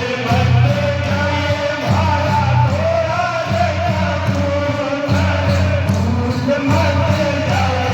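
Rajasthani folk music for Gindad dancing: a singing voice over a steady, heavy drum beat.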